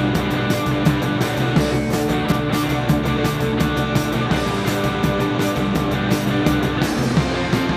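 Rock band playing live, an instrumental stretch without vocals: distorted guitar over drums keeping a fast, steady beat.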